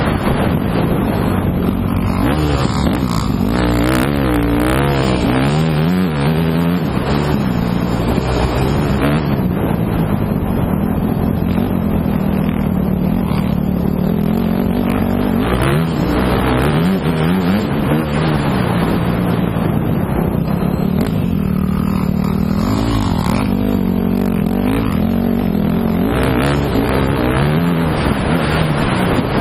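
Motocross bike engine being ridden hard, its note rising and falling over and over as the throttle opens and closes, with no break.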